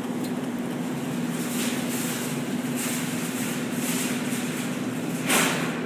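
Steady mechanical hum of a crane claw game machine, with light rattles in the middle and one short, loud clatter about five seconds in.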